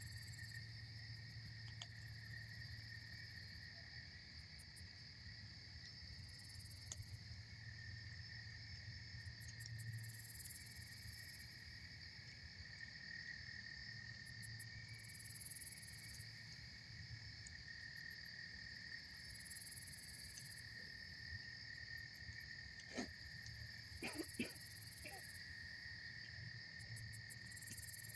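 Steady chorus of insects chirring at two pitches, with short high-pitched buzzes repeating every few seconds. A few sharp pops from the campfire come near the end.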